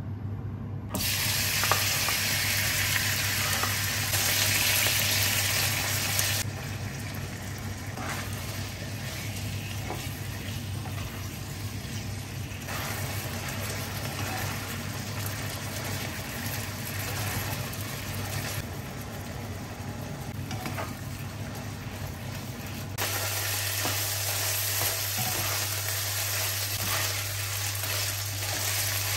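Chicken pieces sizzling in hot oil in a granite-coated wok, with a spatula scraping and stirring them. The sizzle starts about a second in and steps louder and quieter at several points, over a steady low hum.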